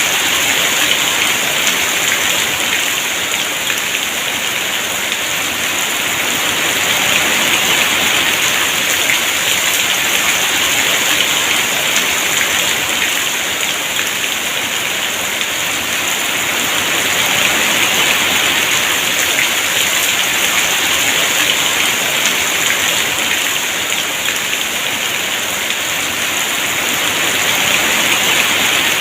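Heavy rain falling steadily, a dense even hiss of drops that swells and eases gently every few seconds.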